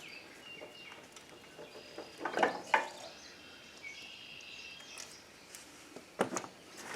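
Birds chirping in the background, with a short clatter of parts being handled about two and a half seconds in and a few light clicks near the end.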